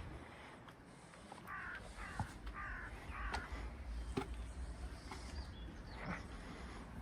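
A bird calling four times in quick succession, starting about a second and a half in, over a steady low hum of background noise, with a few sharp knocks.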